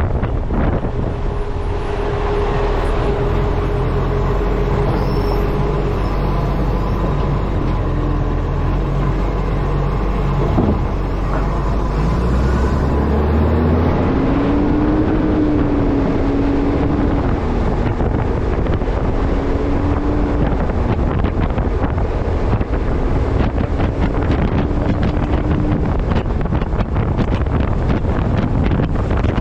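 Wind buffeting the microphone of a camera mounted on the front of a moving Acco refuse truck, with the truck's engine humming low underneath. About halfway through, the low hum drops away and a higher tone rises and wavers.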